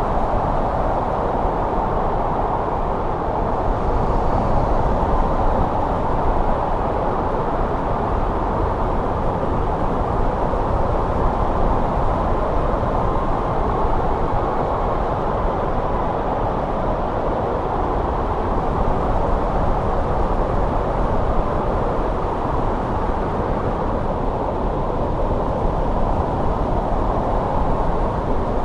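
Steady wind of a snowstorm, a deep, even rush of noise with slight swells in level.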